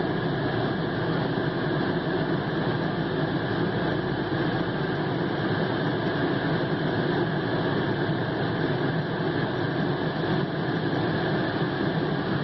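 2001 Lincoln LS engine idling steadily, a constant even running noise with no change in pitch.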